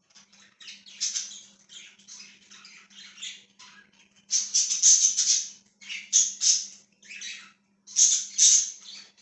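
Budgerigars chattering and chirping in quick, scratchy bursts of warbling, loudest from about four to five and a half seconds in and again near the end.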